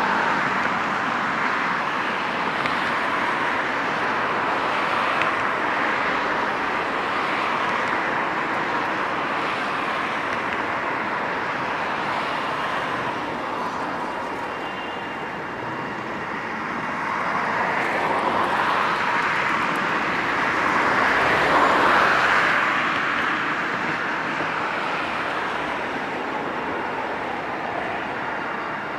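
Steady rushing noise of passing vehicles, swelling about twenty seconds in and easing off near the end.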